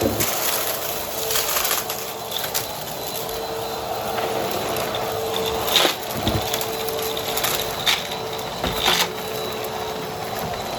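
Vacuum cleaner running with a steady motor hum, its spinning brushroll crunching and crackling through dry debris, with several sharper crunches in the second half.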